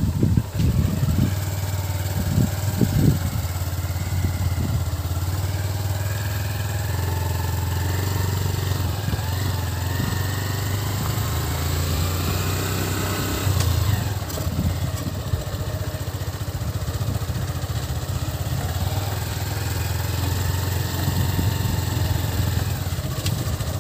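Motorcycle engine running during a ride, a steady low rumble, with a few loud knocks in the first three seconds.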